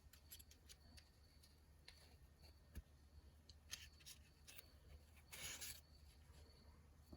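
Near silence with faint scattered clicks and one brief rustle a little past the middle: a plastic chainsaw airbox part being handled.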